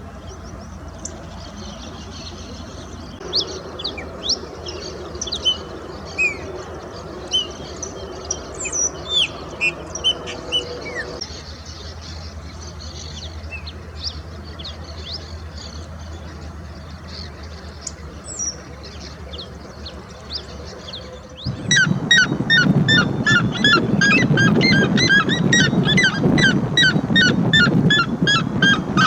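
Wild birds calling: at first scattered short, high chirps and whistles, then from about two-thirds of the way in a much louder, rapid run of repeated harsh calls, several a second.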